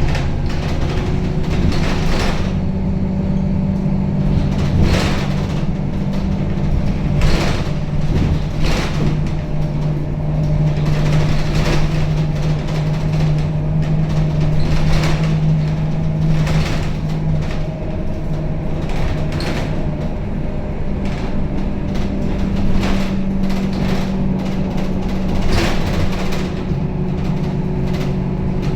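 Scania K270UB city bus heard from inside the cabin while driving: its five-cylinder diesel engine runs with a steady low drone that changes pitch partway through, over frequent short rattles and knocks from the bus body.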